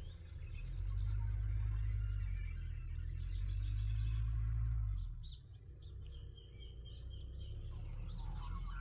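Birds chirping and calling in the background over a low rumble, which swells from about one second in and drops back near five seconds.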